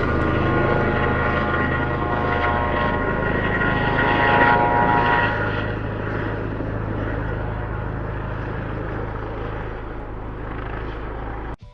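Aircraft engines running steadily: a low drone with several high steady tones above it. The sound grows fainter after about six seconds and cuts off suddenly near the end.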